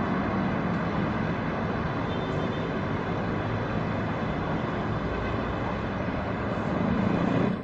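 Steady jet engine noise from an Airbus A350, its Rolls-Royce Trent XWB engines running as it comes in to land in a strong crosswind, swelling slightly near the end.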